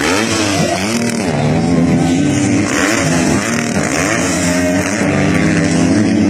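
Several motocross bike engines revving at once, their pitches rising and falling and overlapping as the bikes race.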